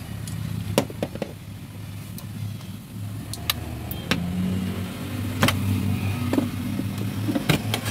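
A steady low engine hum, like a vehicle idling, with several sharp clicks and knocks as hands work the fuel pump's wiring connector loose.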